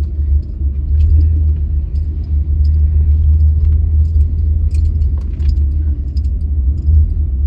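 Steady low rumble inside a slowly moving car's cabin, with scattered faint clicks and light rattles.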